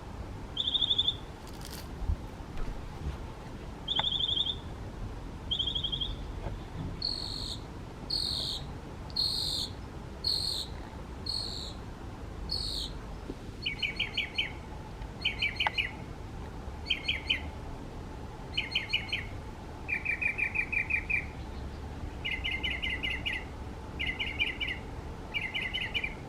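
Northern mockingbird singing, repeating each phrase several times before switching. It starts with a few short trilled notes, then gives a run of repeated higher notes, then a series of quick rattling trills about one and a half seconds apart.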